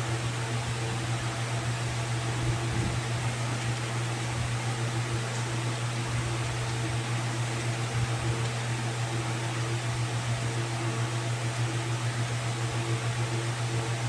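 Steady machine hum: a constant low drone with a few faint steady tones above it, under an even hiss.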